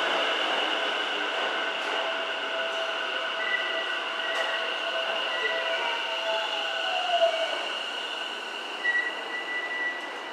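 Electric commuter train pulling into the platform and slowing to a stop. Its motors whine and drop in pitch as it brakes, and a high brake squeal comes twice, near the middle and near the end.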